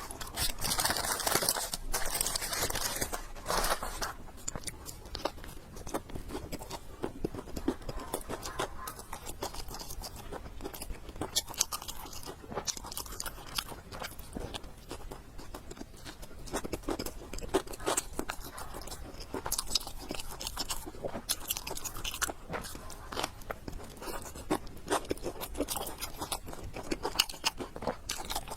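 Close-miked chewing and biting of food, with a constant run of small wet clicks and crunches. It is louder and hissier for the first few seconds.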